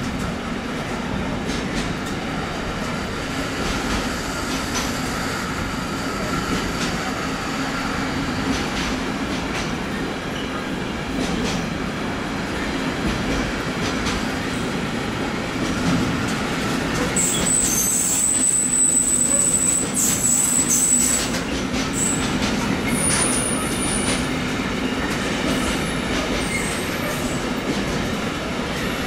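Long freight train rolling through, its wagons making a steady rumble on the rails. A high-pitched wheel squeal sets in about 17 seconds in and lasts some four seconds, with a shorter squeal around 23 seconds.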